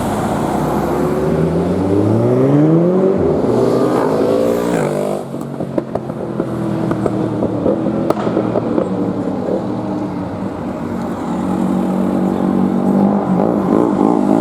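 Car engine accelerating hard, its note rising for about five seconds. It then drops sharply with a few cracks, runs steadily, and climbs again near the end.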